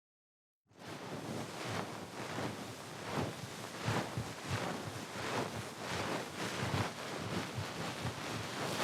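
Ear pick (mimikaki) scraping and rustling close against the microphone in quick repeated strokes, about three a second, starting just under a second in after digital silence.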